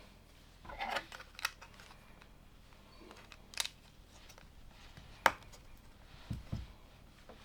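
LEGO plastic pieces being handled and pressed together. There is a short rummaging rustle about a second in, then a few sharp clicks, the loudest a little past five seconds, and two soft low knocks near the end.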